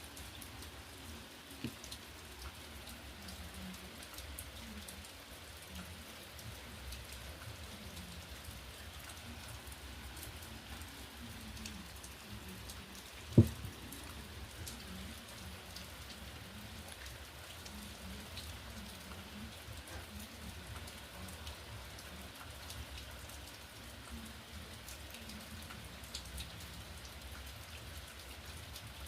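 Steady rain falling, with scattered small drip ticks, and one short dull thump about halfway through.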